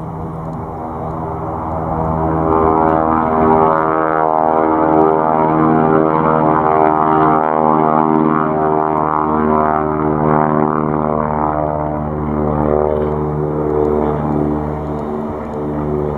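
A mini aeroplane's propeller and motor running steadily, a droning tone with many overtones that grows louder over the first couple of seconds and then holds with small swells in pitch and level.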